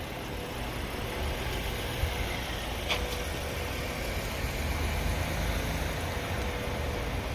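A motor vehicle's engine idling steadily: a continuous low rumble with a faint steady hum above it and a couple of light ticks.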